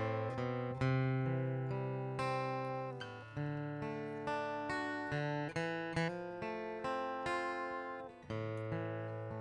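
Acoustic guitar playing a slow instrumental introduction, picked and strummed notes ringing out and changing every second or so.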